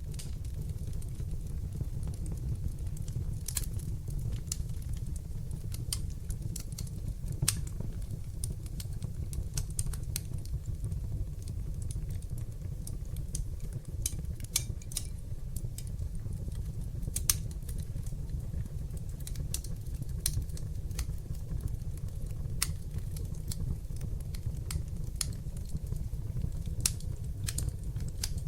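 Wood fire burning in a fireplace: a steady low rumble of flames with irregular sharp crackles and pops, a few louder than the rest.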